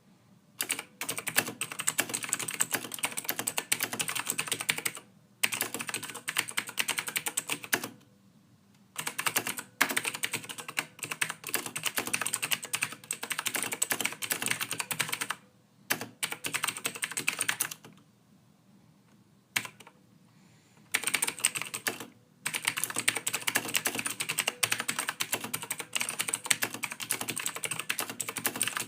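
Soft typing on a computer keyboard: fast runs of key clicks broken by short pauses, the longest about three seconds in the second half.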